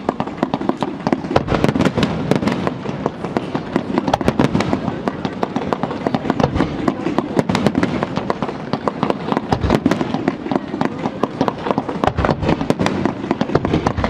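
Fireworks display in a dense barrage: many bursts and crackles in rapid, overlapping succession over a continuous rumble.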